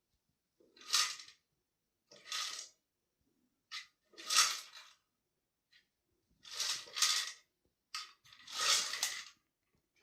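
A cat's spinning toy being batted around, rattling in about seven short, irregular clattering bursts with quiet gaps between.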